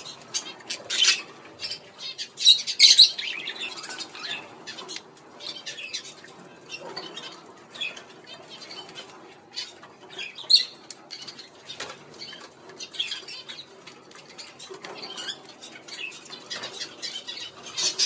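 Budgerigars chirping and chattering in short squeaky bursts, mixed with many quick clicks from beaks pecking at carrot. The loudest bursts come about three seconds in and again near the end.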